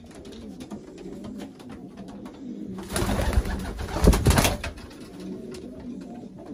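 Racing pigeons cooing in the background. About three seconds in there is a loud rustling burst lasting under two seconds.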